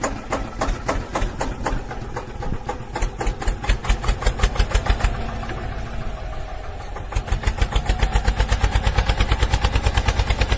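Engine chugging in a fast, even pulse that grows louder from about seven seconds in.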